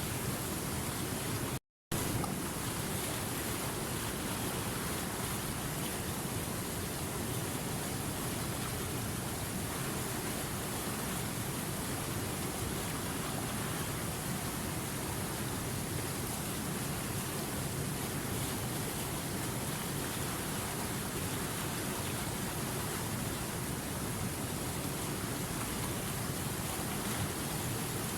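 Running river water rushing steadily, an even hiss over a low rumble. It cuts out completely for a split second a little under two seconds in, then resumes unchanged.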